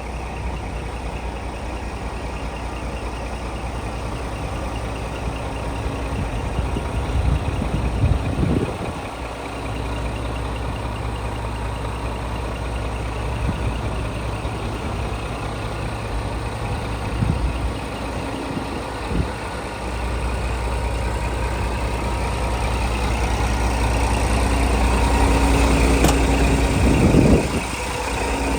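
Diesel engine of a Scania R480 dump truck running steadily, with a few brief swells and growing louder in the last several seconds.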